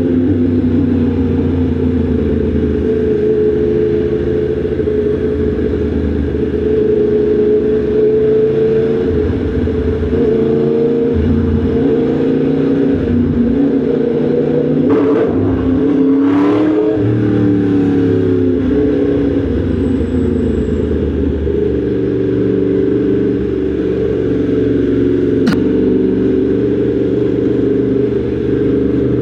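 Yamaha MT-10 SP's crossplane inline-four engine running steadily under way, its note dipping and climbing back about halfway through. A single sharp click near the end.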